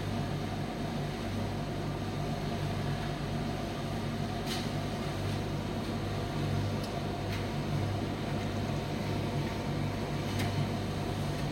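Primus commercial tumble dryer running: a steady low motor and fan hum with the drum turning, and a few faint ticks.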